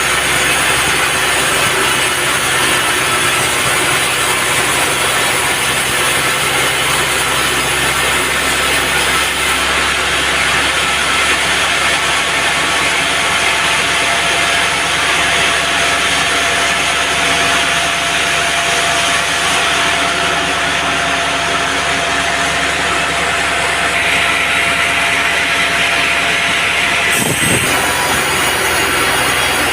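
Band sawmill running with its blade cutting through teak, a loud steady mix of motor hum and sawing noise. The sound changes abruptly about three seconds before the end.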